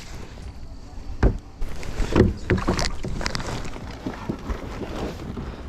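Kayak and paddle handling on the water: a series of knocks and thumps on the hull, the loudest about two seconds in.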